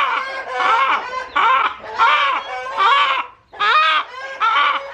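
Chicken squawking loudly in a rapid run of harsh, repeated cries: alarm and distress calls from a hen being caught and held.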